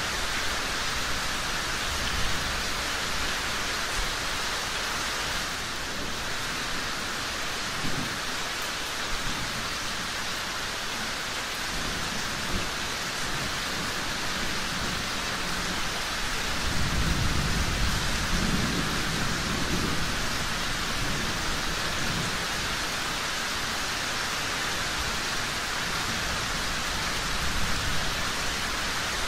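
Steady rain falling. A low rumble of thunder swells about seventeen seconds in and fades a few seconds later.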